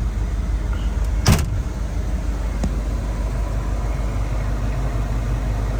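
A Ford 7.3 IDI turbo diesel running steadily with a low rumble, heard from inside the cab, with a single sharp clunk about a second and a half in.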